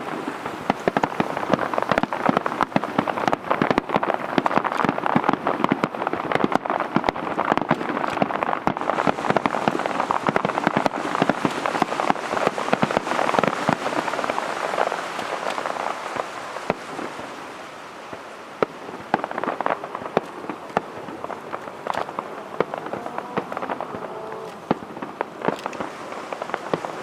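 Aerial fireworks crackling: a dense, continuous crackle of many tiny bursts that sounds like heavy rain. It thins out about two-thirds of the way through, with a few louder pops near the end.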